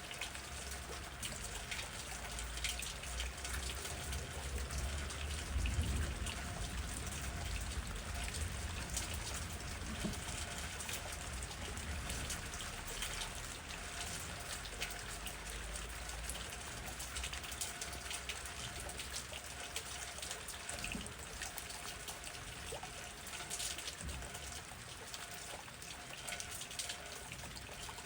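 Steady rain, with many separate drops ticking close by over an even hiss. A low rumble of wind swells a few seconds in and then eases.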